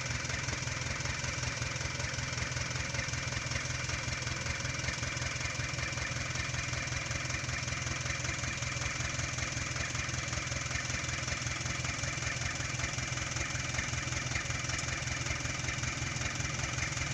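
Dump truck's diesel engine running at a steady idle, a fast even low throb.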